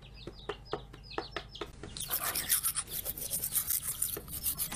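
A bird chirping in a quick string of short notes, each falling in pitch, for about two seconds. Then a louder scratchy rubbing noise in quick strokes takes over.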